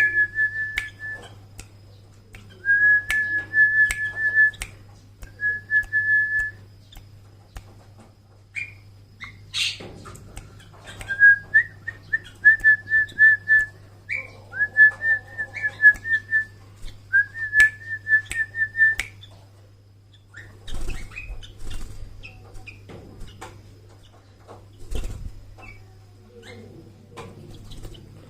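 High trilled whistles at one steady pitch, repeated in six phrases of one to three seconds each, mixed with scattered sharp clicks.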